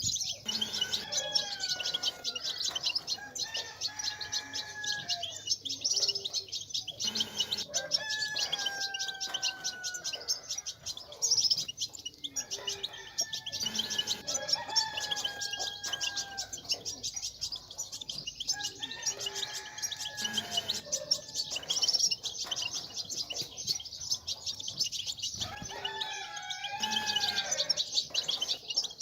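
European goldfinches twittering in a dense, rapid chatter of high chirps. A lower, drawn-out gliding call recurs about every six seconds over it.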